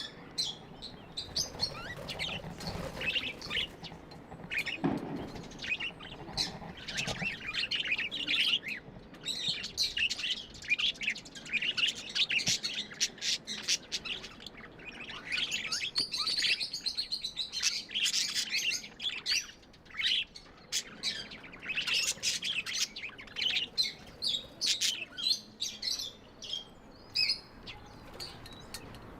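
Budgies (budgerigars) chirping and chattering: a constant stream of short, high chirps.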